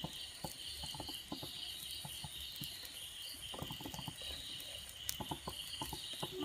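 Egg-and-noodle patties frying gently in oil on a low flame: faint, irregular small crackles and pops of sizzling.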